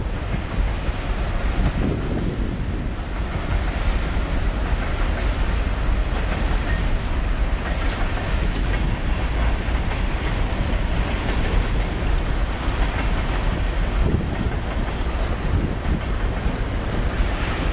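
Train rolling past on the Norfolk Southern main line, a steady heavy rumble with wheels clattering over the rails.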